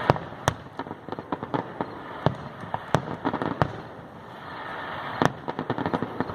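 Fireworks display: an irregular series of sharp bangs and crackling pops, several louder reports standing out, the biggest about five seconds in.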